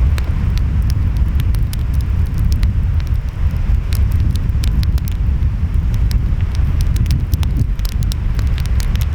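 Wood fire crackling, with many quick sharp pops, over a deep steady rumble of ocean waves and wind.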